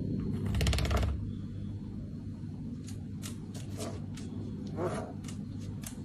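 A lory pushing chocolate cookie discs across a stone countertop with its beak: a quick rattling scrape about half a second in, then scattered light clicks and taps, with a short squeak near the end.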